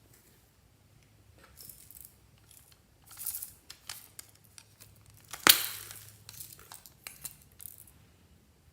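Fluffy slime being worked by hand, giving scattered sticky pops and crackles, with one sharp, much louder snap about five and a half seconds in.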